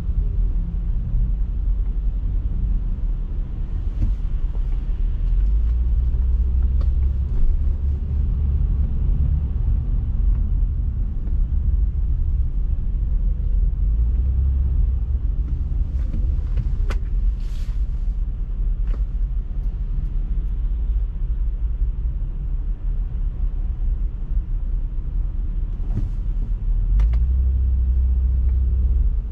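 Car driving steadily: a continuous low road and engine rumble, with a few faint clicks and a brief hiss about two-thirds of the way through.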